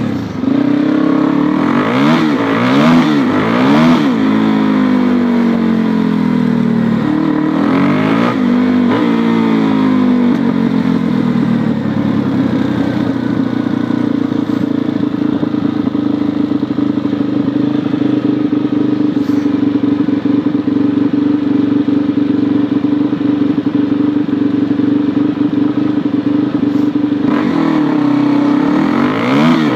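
Suzuki DR-Z400E's single-cylinder four-stroke engine revved up and down several times. It then holds a steady engine note for much of the time and revs again near the end.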